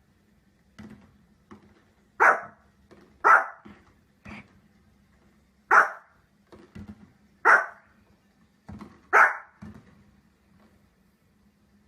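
A dog barking in single short barks, five loud ones spaced one to two seconds apart, with fainter short sounds in between.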